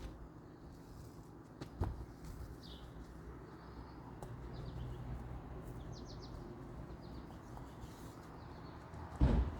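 Small birds chirping briefly now and then over a steady low background rumble. There is a sharp knock about two seconds in and a louder thump near the end.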